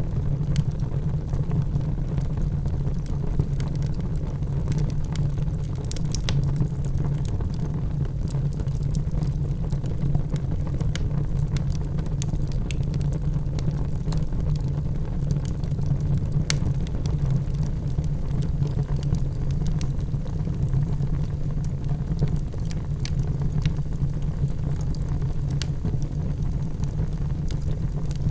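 Wood fire burning in a fireplace: a steady low rumble with scattered sharp crackles and pops every few seconds.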